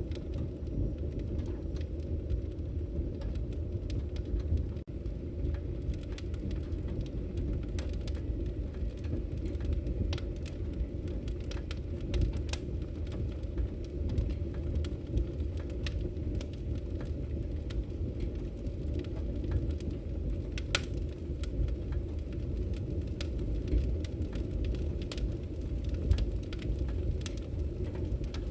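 Wood fire burning in a fireplace: a steady low rumble from the flames, with sharp crackles and pops at irregular moments.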